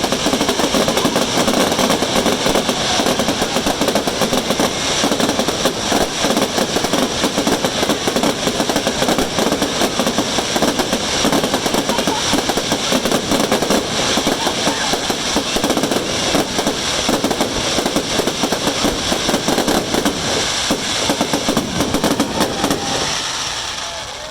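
Fireworks going off in a dense, rapid, continuous barrage of crackling reports, like machine-gun fire, dying away near the end.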